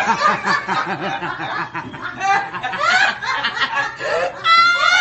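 People laughing and chuckling. Near the end comes a high-pitched squeal.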